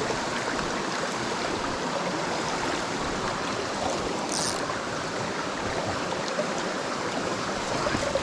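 Mountain stream rushing over rocks: a steady, even rush of flowing water. A brief high-pitched sound comes about four seconds in.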